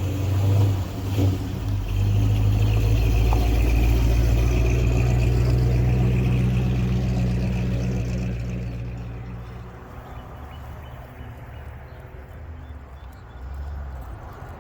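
A car driving past with a low engine rumble, loudest about four seconds in, then fading away by about ten seconds.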